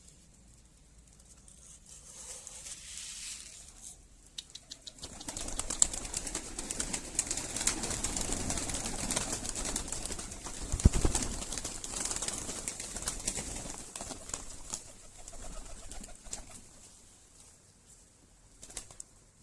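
Birds moving about in their enclosure. A faint pigeon-like coo comes about two seconds in. From about five seconds in there are ten seconds of wing flapping and rustling with many small clicks, and a loud thump near the eleventh second.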